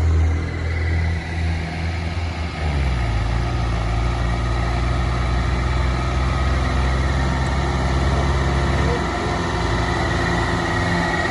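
Tractor diesel engine running. Its pitch drops about two and a half seconds in, then it runs steadily.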